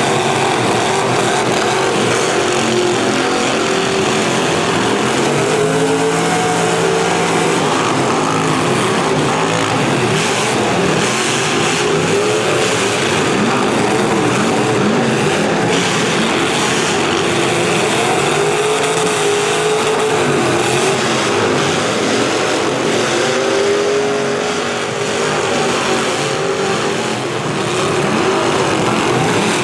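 Several V8 demolition derby car engines revving up and down over one another, loud and continuous, easing briefly near the end.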